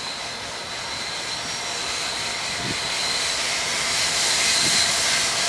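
A train approaching, its steady rushing noise growing louder.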